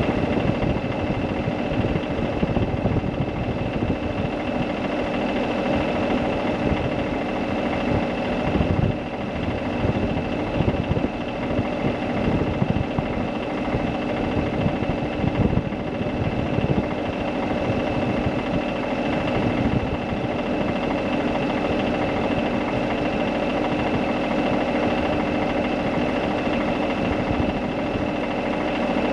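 An engine running steadily at a constant pitch, with irregular low knocking under it.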